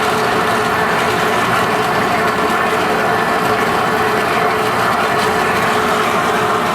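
Lathe running steadily as it turns a large pot-bearing part: an even, dense machining noise with a faint steady hum.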